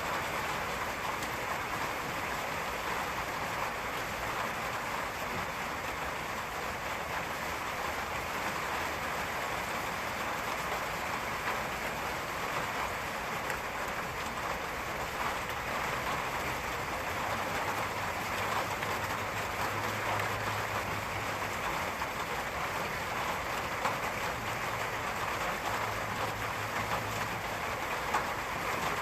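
Steady rain falling, an even dense hiss with scattered drop ticks. A faint low rumble comes and goes in the second half.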